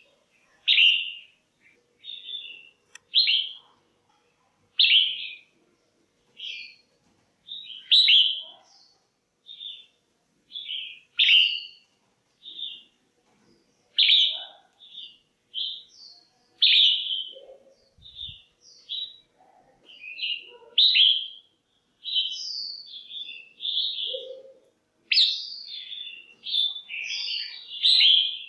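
Red-whiskered bulbul calling: short, bright chirped phrases about once a second, coming thicker and overlapping near the end. Presented as a female's calls, used to excite a male bulbul or to pair birds.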